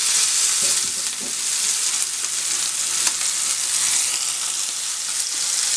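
Lamb burger patties sizzling in oil in a very hot frying pan: a steady hiss with a few faint crackles.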